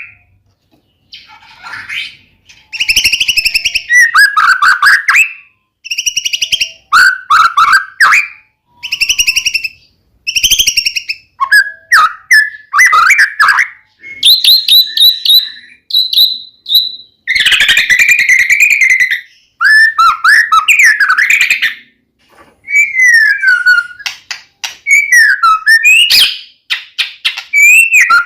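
White-rumped shama singing loudly and at length, in whistled phrases of a second or two with quick rising and falling notes and rapid trills, broken by short pauses.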